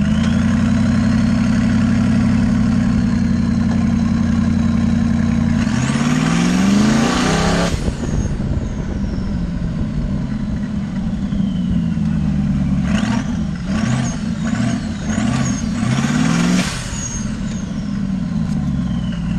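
Twin-turbo Rover 3.9 V8 in an off-road buggy, heard from the driver's seat: running steadily under load, then revving hard about six seconds in, with a high whistle falling away as the throttle comes off. Between about thirteen and seventeen seconds comes a string of short throttle bursts, each with a rising and falling whistle.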